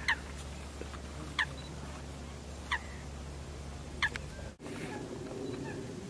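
A bird giving four short, sharp calls, each falling quickly in pitch, a little over a second apart, over a steady low rumble.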